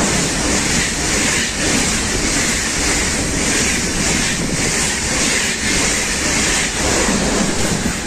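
An ICE high-speed train passes through the station at speed, close by. It makes a loud, steady rush of wheel and wind noise with a regular pulsing as each car goes past.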